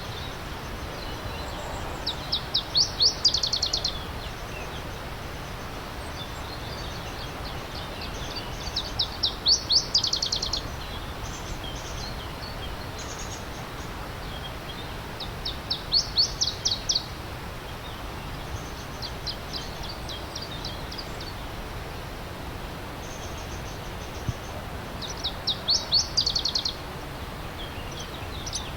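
A songbird singing a short, fast run of high notes, repeated about every six to seven seconds (four times), with fainter bird calls between, over the steady rush of a stream.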